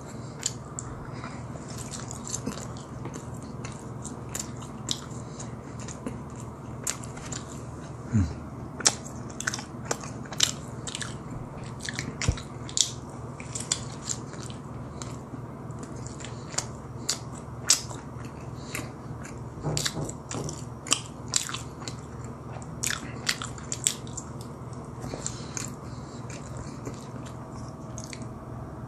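Close-miked mouth sounds of a person chewing and biting fried doughnut pieces: wet smacks and small crunches at irregular intervals, over a steady low hum.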